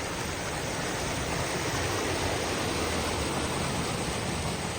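Steady rush of flowing creek water, an even hiss with no distinct splashes.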